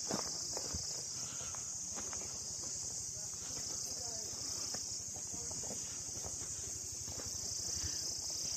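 Steady high-pitched drone of insects in the trees, going without a break, with faint scattered footsteps beneath it.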